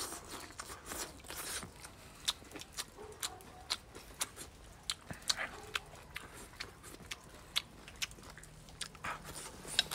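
Close-up chewing of a mouthful of stir-fried pork and peppers: wet mouth clicks and smacks at an irregular pace.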